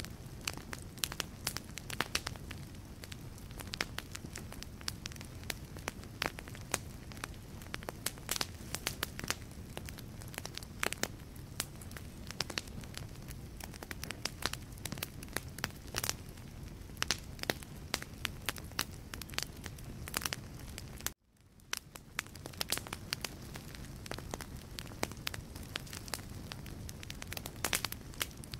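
Wood logs burning in a fireplace: a steady low rumble of flame with dense, irregular crackles and pops. About three-quarters of the way through, the sound cuts out abruptly for a moment and then fades back in.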